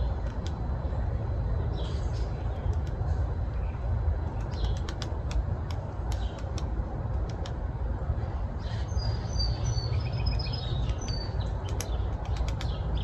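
A steady low rumble with scattered clusters of sharp taps, and a few short high bird chirps a little past the middle.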